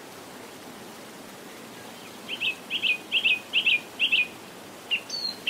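A small bird chirping over a steady background hiss. The chirps start a little under halfway in as a quick run of about five sharp double chirps, then a few scattered single chirps and a higher call near the end.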